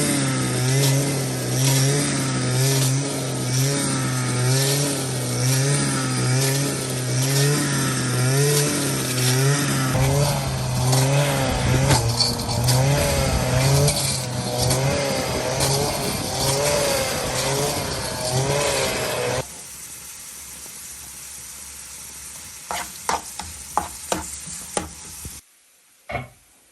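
An engine running loud and unevenly, its pitch wavering up and down with a hiss over it, cutting off sharply about 19 seconds in. A few sharp clicks follow.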